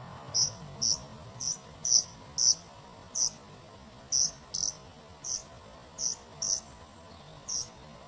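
Short, high-pitched chirps, about a dozen at uneven intervals, over a faint steady background.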